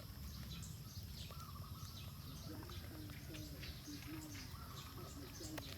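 Small birds chirping over and over in short high notes, over a steady low background rumble.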